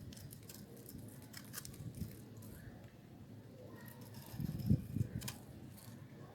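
Knife cutting hard, dry soap: faint scattered crackling ticks, with a few heavier cuts about four and a half to five seconds in.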